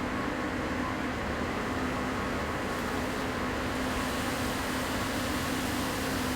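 Steady factory machinery noise from the car-body paint shop: an even rush of ventilation and running equipment with a constant low hum.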